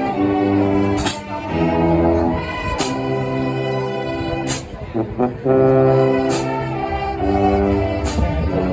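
Brass band playing loud held chords, with a cymbal crash about every two seconds.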